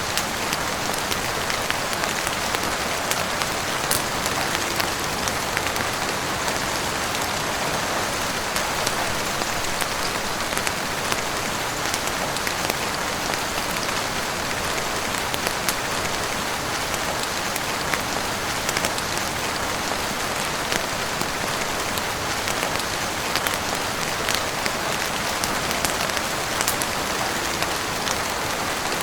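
Steady heavy rain falling on a roof and windows, an even hiss with scattered sharp ticks.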